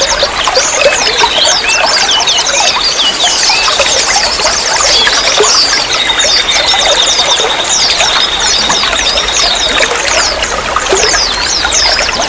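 Running water trickling and pouring steadily, with many quick, high bird chirps over it and a thin, steady high trill held for a few seconds in the middle.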